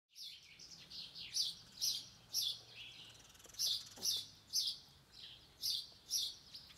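A small songbird chirping over and over, short high falling notes about twice a second.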